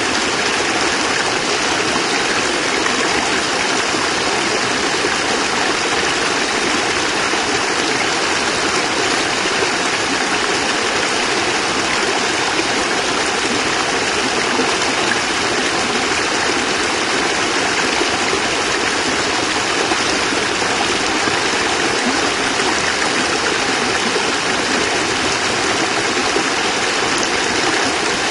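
Water of a small cascade falling and splashing over rocks in a steady rush, even throughout.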